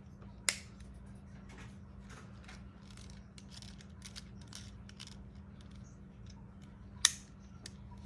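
A plastic action figure and its accessories being handled: a run of small plastic clicks, with two sharp snaps, one about half a second in and one near the end.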